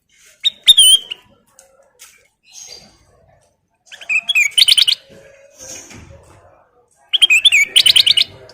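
Kutilang emas, a bulbul, singing in three loud bursts of quick, repeated whistled notes, with short pauses between them.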